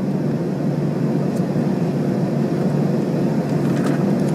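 Steady low rumble of an Airbus A321-200's cabin as it taxis after landing: engine and airflow noise at taxi power, with a few faint clicks near the end.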